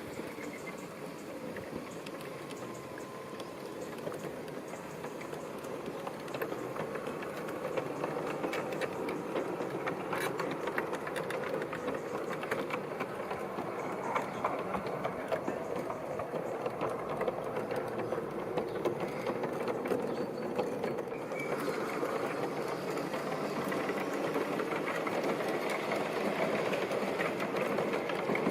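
G-scale model diesel locomotive pulling a freight train along garden track. Its electric motor and gears whirr steadily, with small wheel clicks over the rails, and it grows gradually louder as the train approaches.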